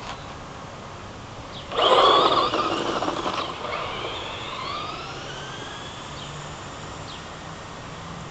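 Traxxas Slash electric RC truck driving by. A loud burst of tyre and dirt noise starts about two seconds in, then the motor's whine rises in pitch and fades as the truck speeds away.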